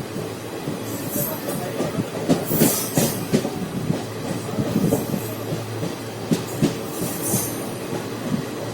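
Passenger train running on the track, its wheels giving irregular clacks and knocks over the rails above a steady low rumble, with a few brief high hisses or squeals.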